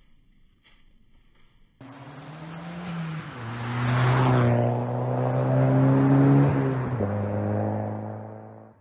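A car engine running hard, starting suddenly about two seconds in. Its pitch steps down twice, first about three seconds in and again about seven seconds in, and it fades out at the end.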